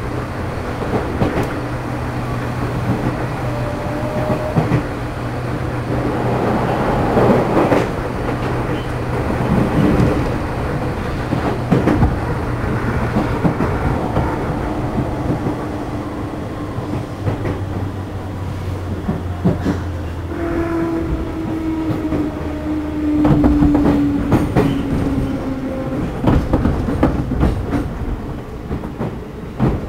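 Running noise aboard a JR East 211 series electric motor car, with its externally fanned traction motors. The motors and gears hum under the clatter of wheels over rail joints. From about two-thirds of the way through, the motor tone falls in pitch as the train slows.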